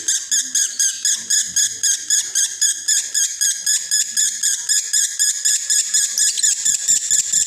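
Male lovebird in breeding condition chattering in the unbroken 'konslet' style: a long run of rapid high notes, about six a second, without a pause.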